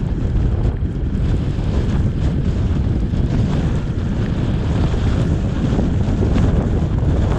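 Steady, loud rumble of wind and road noise from a car driving through a snowstorm, with wind buffeting the microphone.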